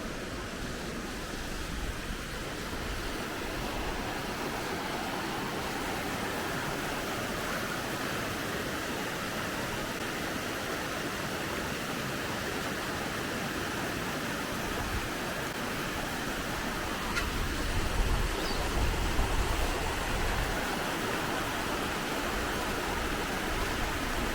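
Steady rush of a waterfall, an even hiss of falling water, with a few louder low rumbles about three-quarters of the way through.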